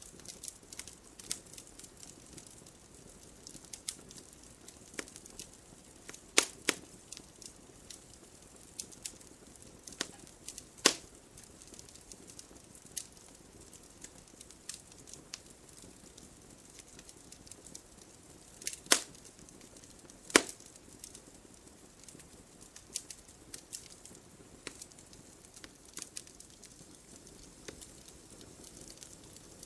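Burning logs in a fireplace crackling: a faint steady hiss under frequent irregular small pops, with a few louder snaps scattered through.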